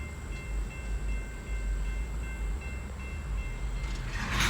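A stopped KCS freight train standing across a road crossing: a steady low rumble with faint, evenly broken high tones over it, and a short rush of noise near the end.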